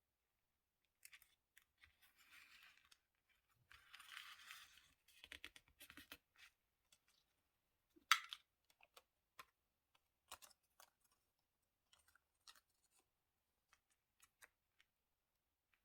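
Hands working paper for diary decorating: short stretches of paper rustling and cutting, with scattered light clicks and taps. One sharper tap comes about eight seconds in.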